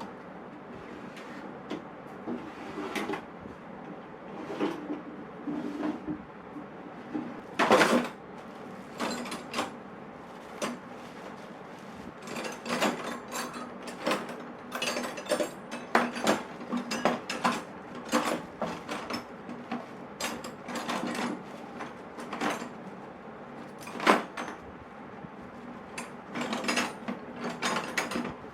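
Hand tools being set into an aluminium toolbox: irregular knocks, clinks and short scrapes of tools against the box and each other, with two sharper knocks about eight seconds in and near the end.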